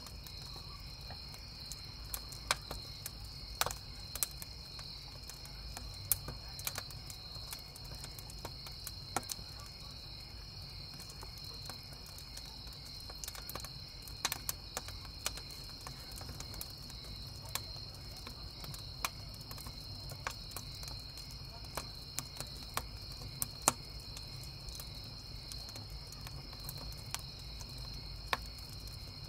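Crickets chirping steadily, with irregular sharp crackles and pops of burning firewood in a campfire.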